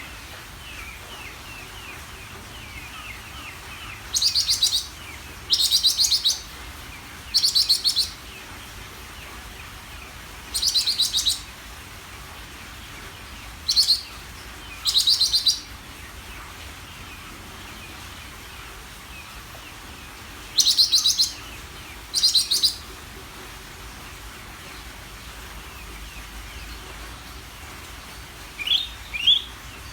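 Green leafbird (cucak ijo) singing: about eight loud, short bursts of very fast, buzzy trilled notes spaced a few seconds apart, with faint twittering in between and two quick falling notes near the end.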